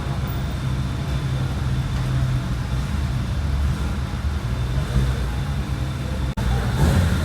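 Car engines running at low speed in an underground car park: a steady low rumble, broken once by a brief gap near the end.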